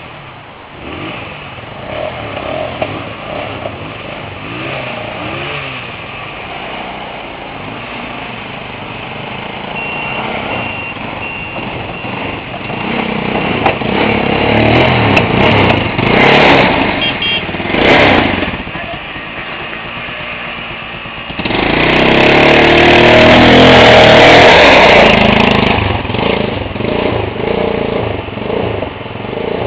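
Motorcycle engines running and revving, rising and falling, with two short loud surges in the middle. A louder rushing stretch lasts about four seconds, beginning roughly three-quarters of the way through.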